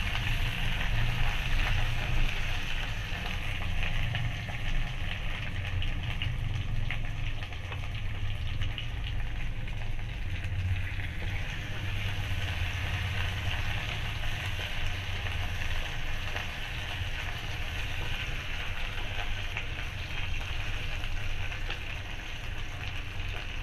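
Cubed potatoes and sliced onions sizzling as they fry in oil in a kadhai, with a wooden spatula scraping and knocking against the pan now and then as they are stirred. A low steady hum runs underneath.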